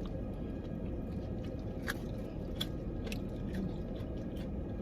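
Close-up chewing and biting of fried chicken wings, with scattered sharp clicks and crunches.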